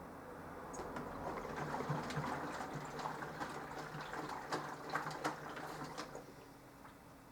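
Minicolo mini washing machine washing a load: water sloshing and splashing in the drum with sharp little clicks, over a low motor hum. The sloshing dies down near the end.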